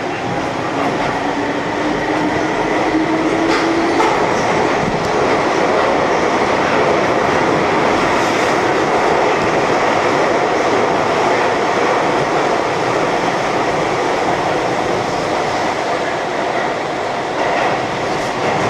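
Keihan electric train running at speed, heard from inside the car, with a steady rumble of wheels on rails. A motor whine rises in pitch over the first few seconds as the train accelerates.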